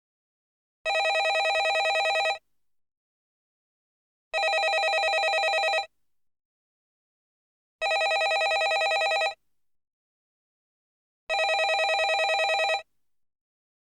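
Landline telephone ringing: four rings about a second and a half long, each with a fast warble, repeating about every three and a half seconds with silence between.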